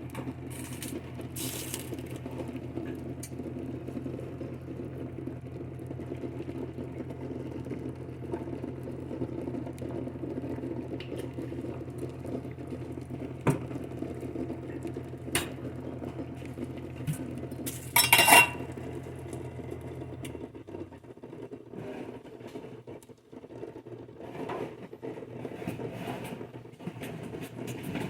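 Kitchen clatter of pots, pans and utensils: scattered clinks and knocks, with one loud clatter about two-thirds of the way through. Under it a steady low appliance hum runs and cuts off suddenly about 20 seconds in.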